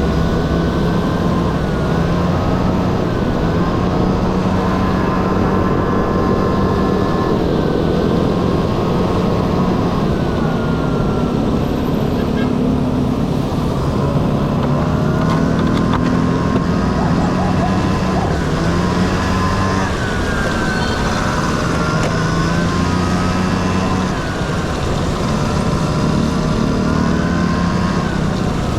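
Honda Dio 50cc two-stroke single-cylinder scooter engine running on the move, its pitch rising and falling with the throttle, over a steady rushing noise.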